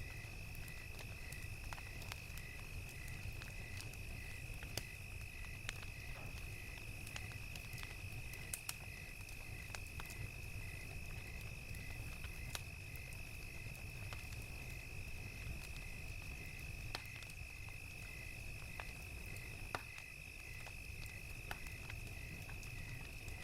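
Crickets chirping in an even rhythm, about two chirps a second, over a continuous high insect trill, with scattered sharp crackles from a wood fire and a low, steady rumble beneath.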